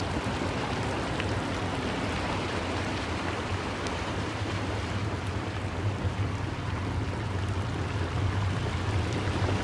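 Heavy rain falling steadily, an even hiss of downpour with a low rumble underneath that grows stronger in the second half.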